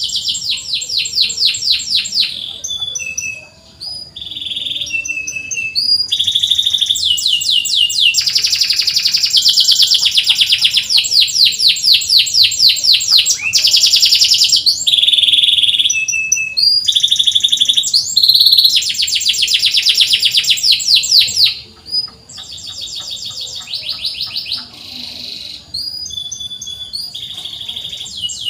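Domestic canary singing a long, loud song of rapid trills and chirped 'cuit cuit' phrases, with a couple of brief pauses.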